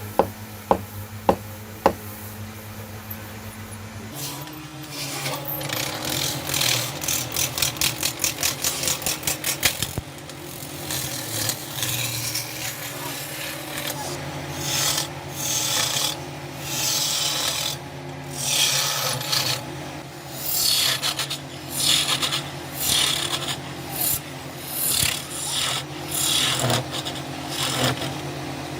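Wood being worked by hand with an abrasive stroke tool, rubbing back and forth: quick strokes about four a second, then slower, longer strokes about once a second, over a steady hum. Four sharp taps come before the rubbing starts.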